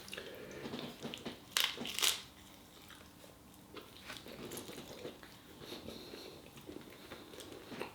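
A person quietly chewing and biting a mouthful of chapatti wrapped around Kung Pao chicken and rice, with two short sharp clicks about a second and a half and two seconds in.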